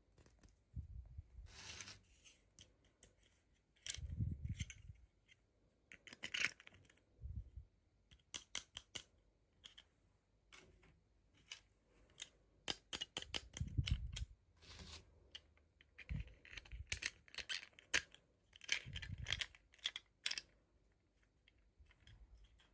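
Hands unboxing small plastic dolls and their packaging: irregular sharp clicks and crinkles, with a few soft thumps as pieces are set down.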